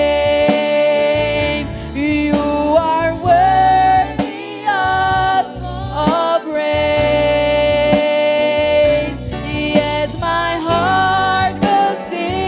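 Live worship band music: a voice holding long sung notes over bass and drums.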